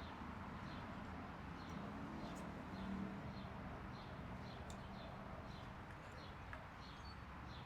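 Faint outdoor background: a steady low rumble of distant traffic, with short high chirps repeating about twice a second and a low drone swelling briefly around three seconds in.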